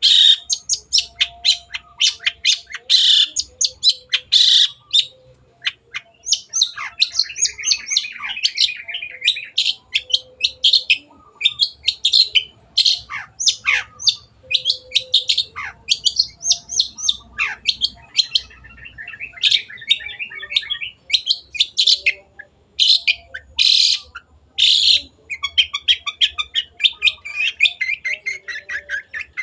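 Long-tailed shrike (cendet) singing vigorously, a continuous run of rapid harsh chattering notes broken by a few falling whistled slurs. Near the end the notes turn into a fast rattling trill.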